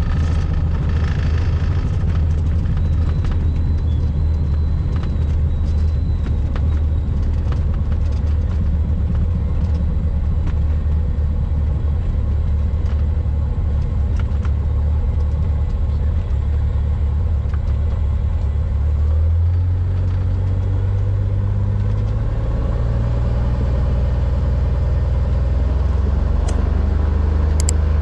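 Cessna 182R's six-cylinder piston engine and propeller droning steadily. About two-thirds of the way through, the engine speed steps up and the drone rises in pitch, then holds at the higher pitch.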